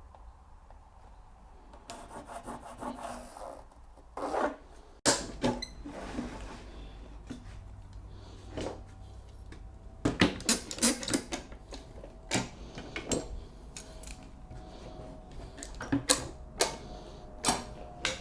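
Timber stair string and marking template being worked by hand: scattered scraping rubs against the wood and sharp knocks and clicks, with small clusters after about two seconds, around ten seconds and near the end.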